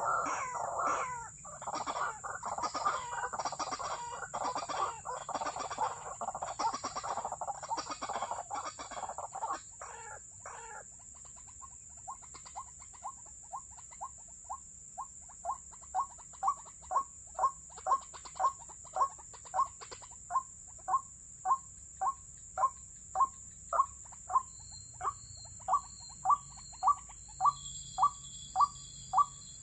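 White-breasted waterhen calling: a harsh, dense chattering for about ten seconds, then a long steady run of single repeated notes, a little under two a second, growing louder.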